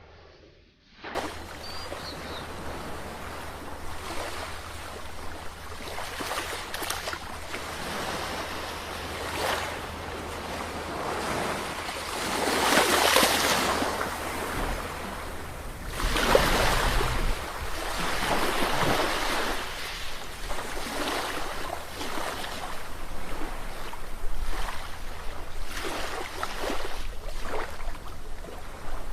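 Ocean surf: waves breaking and washing in a steady hiss that swells and falls, with the loudest breakers about twelve and sixteen seconds in. It starts abruptly about a second in.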